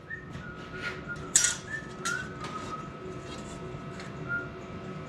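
Light handling of steel pieces on a work surface: a couple of sharp metal clinks, with a few very short, high squeaks in between.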